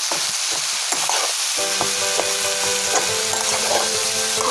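Snake gourd slices and chana dal sizzling in hot mustard oil in a frying pan while a spatula stirs them, with short scraping strokes against the pan.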